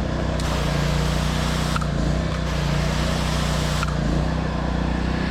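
Pressure washer's gas engine running steadily, with the high-pressure water spray hissing on and off twice as the trigger is pulled and released, each burst lasting over a second.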